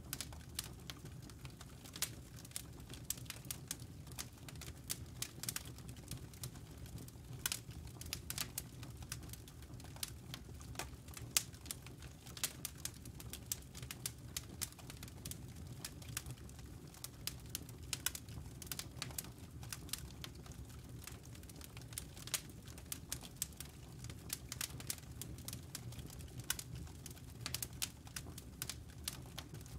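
Wood fire crackling in a fireplace: burning logs giving irregular sharp pops and snaps, several a second, over a low steady rumble.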